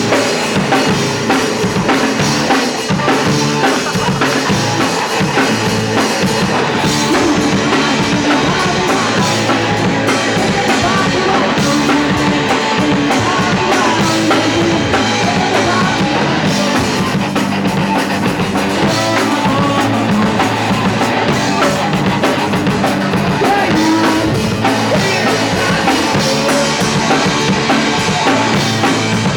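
A punk rock band playing live, a drum kit driving a loud, continuous song.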